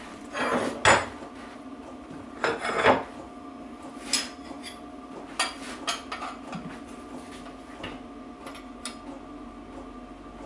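Metal-on-metal clinks and scrapes from hand tools and a bearing puller being fitted and worked to draw a bearing into a motorcycle gearbox casing. Two louder scraping rattles come near the start and about two and a half seconds in, followed by scattered light clicks.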